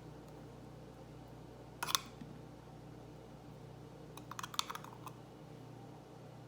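Light clicks and taps of kitchen utensils while green chutney is spooned onto a bun: one sharp click about two seconds in, then a quick run of small clicks about four to five seconds in, over a faint steady hum.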